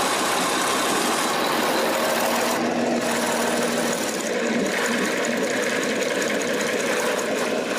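MWM TBD234 V12 water-cooled four-stroke diesel engine running steadily, an even mechanical clatter.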